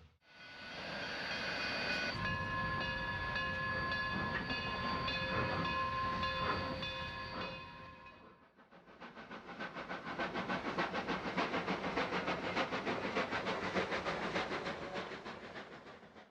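Narrow-gauge steam locomotive's whistle sounding one long chord of several pitches, its pitch set shifting about two seconds in, held for roughly eight seconds. Then the moving train with a fast, even rhythmic beat.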